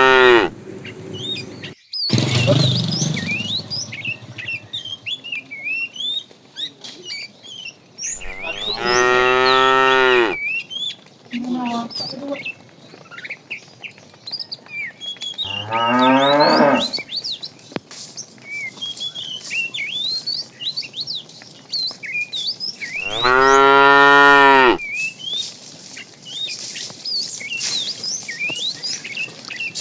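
Cattle mooing: several long, deep moos spaced some seconds apart, with one short faint moo among them. Small high chirps go on throughout.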